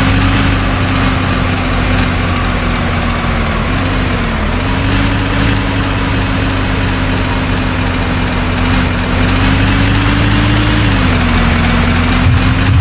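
Heavy diesel engine of earthmoving or haulage machinery running steadily with a deep rumble. Its note dips briefly about four seconds in, and again near the end.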